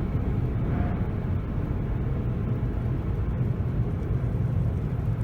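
Automatic tunnel car wash machinery at its drying stage, heard from inside the car's cabin as a steady low rumble.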